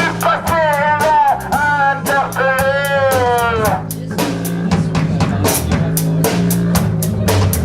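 A band playing: a drum kit keeps a busy beat over a steady bass line, with a sliding, wavering lead melody for the first half, which drops out and returns near the end.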